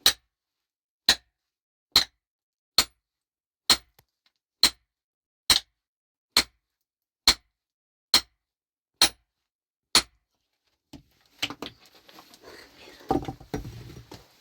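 A hand tool striking a hard surface in steady blows, a dozen sharp knocks a little under a second apart. After about 11 seconds the blows stop and give way to scraping, shuffling and a few dull thuds.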